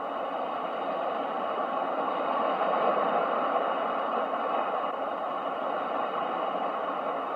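Ocean waves: a steady rushing wash of surf that swells to a peak about three seconds in and slowly eases off.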